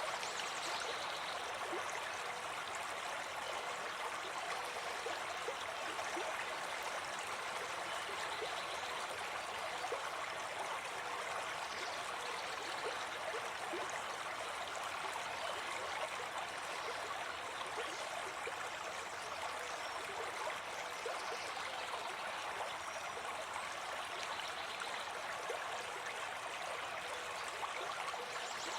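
Small forest stream running over rocks: a steady rush and babble of water with small splashes and gurgles.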